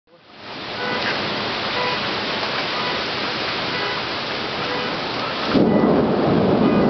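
Heavy downpour and wind of a severe thunderstorm, a steady rushing noise that turns louder and deeper about five and a half seconds in.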